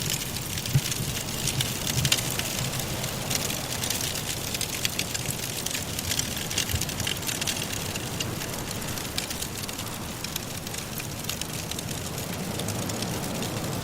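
Wood logs burning in a fireplace, crackling with many small irregular pops and snaps, over a steady low rush of wind.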